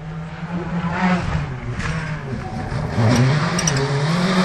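A rally car's engine revving hard as the car approaches, getting steadily louder, the pitch dropping and climbing again about three seconds in as it shifts or lifts off for a corner.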